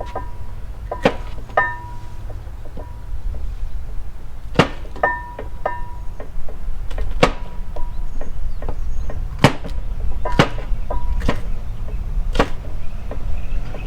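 Knife chopping vegetables on a cutting board: single sharp chops at an uneven pace, roughly one a second, for a rough chop into big pieces.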